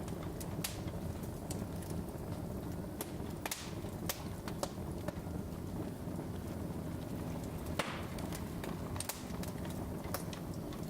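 Log fire crackling in a fireplace: sharp, irregular pops and snaps over a steady low rush of flames.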